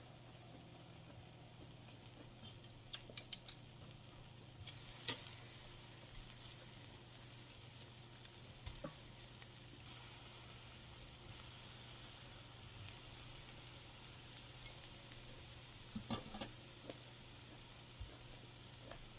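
Food sizzling on a grill pan, with a few sharp clicks early on. The sizzle sets in about five seconds in and grows louder about halfway through.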